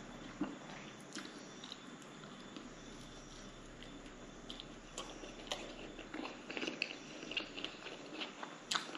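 Mouth sounds of biting into and chewing a homemade fried tuna-and-potato cutlet: small wet smacks and crackles, coming thicker in the second half.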